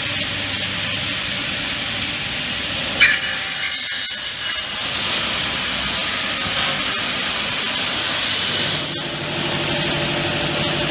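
Double-head aluminium cutting saw with its blade spinning. About three seconds in, the blade cuts through a thin aluminium profile with a loud high-pitched ringing whine. The cut lasts about six seconds, then the saw returns to steady running.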